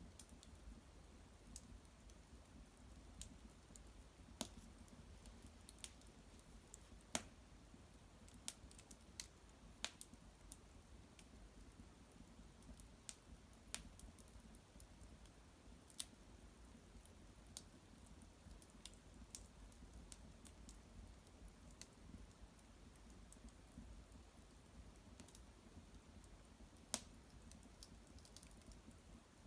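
Small wood fire of cedar branches and bark crackling: scattered, irregular sharp pops and ticks, a few much louder than the rest.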